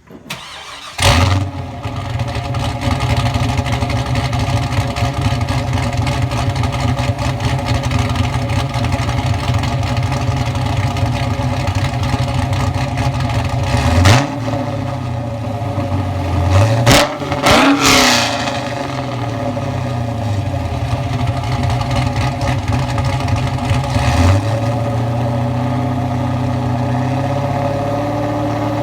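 2002 Pontiac Trans Am's LS1 V8, fitted with an aftermarket cam and a stainless Corsa cat-back exhaust, starting about a second in with a loud flare, then idling steadily. Short throttle blips come about halfway through and again a few seconds later.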